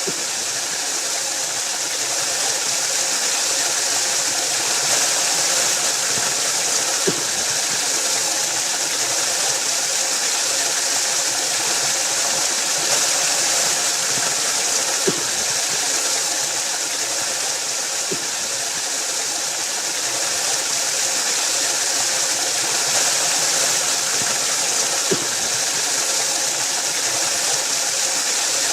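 Waterfall rushing steadily, a constant hiss of falling water with a few faint clicks.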